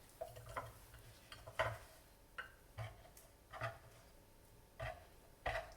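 Soft, scattered taps and clicks of kitchen handling on the counter, about eight light knocks spread over a few seconds, as sliced bell pepper is moved onto a plate.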